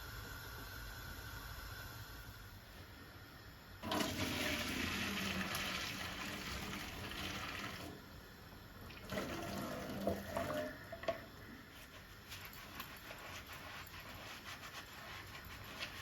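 Water running from a kitchen tap into a sink: a rush that starts suddenly about four seconds in and lasts about four seconds, then a second, shorter run with a few knocks. Small clicks and clatter follow.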